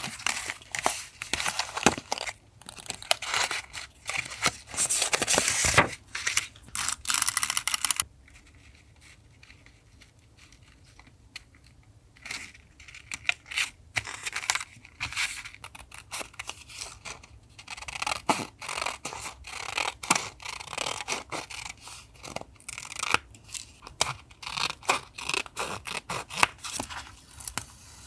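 Paper being handled for a collage journal page. There are long scratchy strokes of noise for the first several seconds, then a quieter pause, then many short crinkles, taps and scratches.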